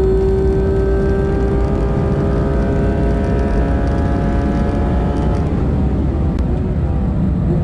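Porsche 911 GT3 RS's naturally aspirated 4.0-litre flat-six running at steady revs, its note sinking slowly and fading out about halfway through, over a constant low rumble.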